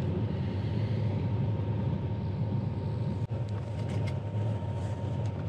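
Steady rumble of a train running, heard from inside an AC three-tier sleeper coach, with a thin steady whine over it and a momentary break about three seconds in.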